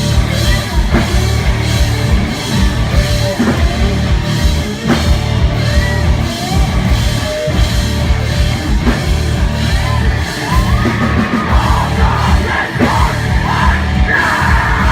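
Loud live rock band playing: pounding drum kit, distorted guitars and bass, with yelled vocals that grow stronger near the end.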